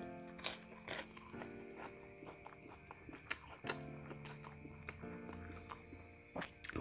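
Crunching and chewing of a crisp fried cracker bitten off by hand, several sharp crunches loudest in the first second and again near the middle, over soft background music.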